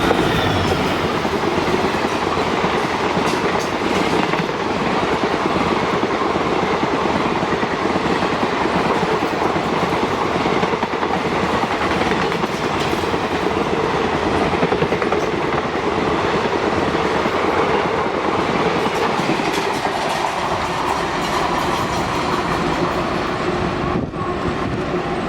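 Express train's passenger coaches running through a station at speed, a steady rush of wheel and rail noise with clattering over the rail joints.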